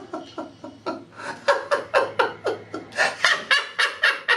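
A person laughing in a long run of short, rapid bursts.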